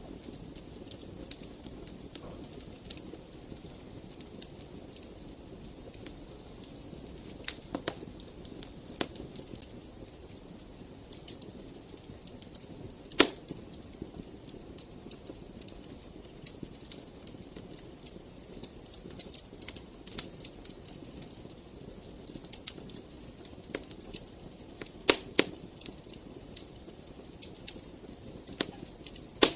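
Wood fire in a fireplace burning steadily with a low rustle, with irregular crackles and pops throughout; the sharpest pop comes about halfway through and a cluster of louder ones comes near the end.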